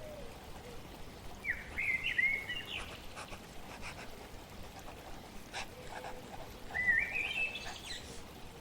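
A songbird gives two short phrases of quick, rising chirps over a steady wash of flowing water, with a few faint clicks in between.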